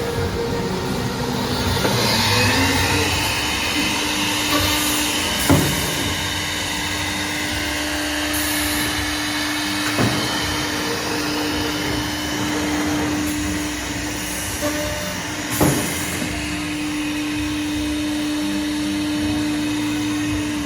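Spindle motor of a three-head horizontal drilling machine for wood running up to speed about two seconds in and then holding a steady hum, with three sharp knocks along the way.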